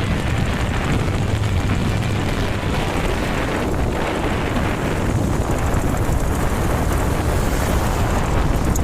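Wind rushing over the microphone during a ride on a Royal Enfield Bullet 500, the single-cylinder engine running steadily underneath.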